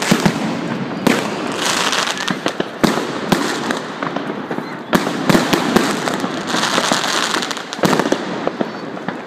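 New Year's fireworks going off: an irregular, dense run of bangs and pops from many rockets and shell bursts, over a continuous crackle, with two hissing stretches.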